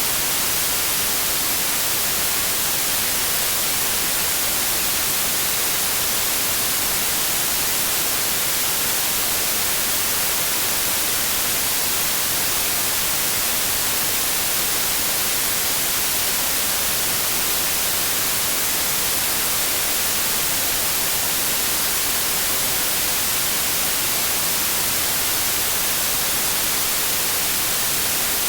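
Steady, unchanging white noise: an even hiss across the whole range, brightest at the top, with no events or changes.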